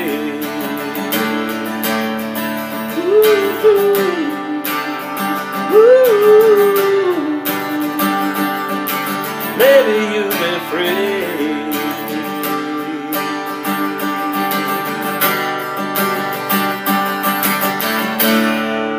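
Acoustic guitar strumming in the closing bars of a song, ending on a chord left to ring out and fade near the end.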